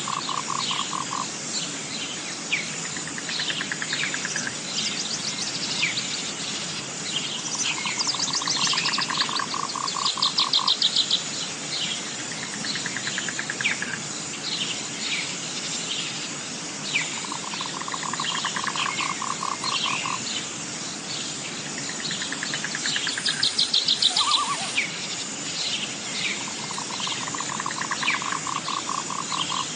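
Natural animal chorus: many birds chirping over a steady high insect drone. A lower pulsed trill of a second or two repeats about every nine seconds.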